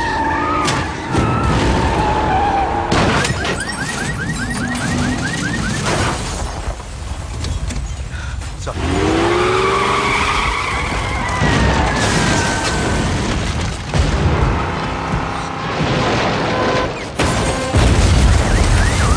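Film sound-effects mix of an earthquake disaster scene: a constant heavy rumble with car engines, screeching tyres and crashes, under background music.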